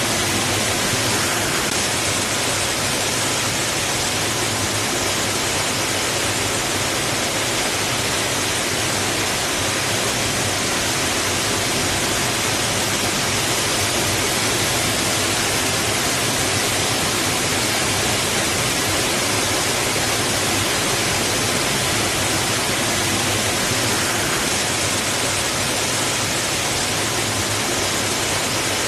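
Water rushing against rocks, a steady unbroken wash of noise that holds the same level throughout.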